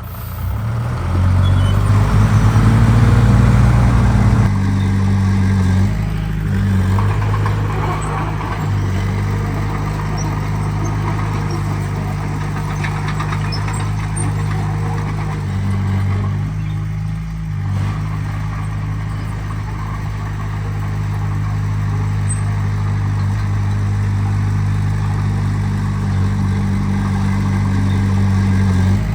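Heavy diesel engine of earthmoving machinery running under load, loudest for a few seconds near the start, then settling to a steady, slightly varying drone.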